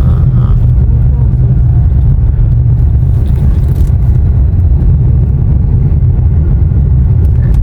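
Loud, steady low rumble of a car driving: road and engine noise, with faint voices underneath.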